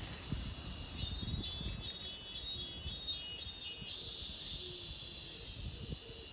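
An insect's high buzzing call, pulsing about five times and then holding steady for the last couple of seconds, over low rustling and knocking.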